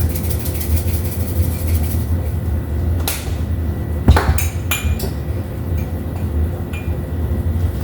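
Scrambled eggs being stirred in a frying pan: a few sharp knocks and clinks of a utensil against the pan, about three and four seconds in, over a steady low hum.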